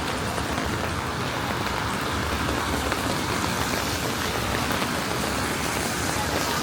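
Steady rain falling on a city street, mixed with the low rumble of traffic on wet roads.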